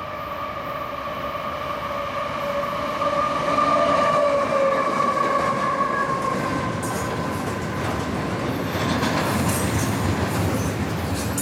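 A train passing on the rails. A high ringing tone sags slightly in pitch and fades over the first six seconds or so, then gives way to a louder rumble of wheels with a clatter of clicks.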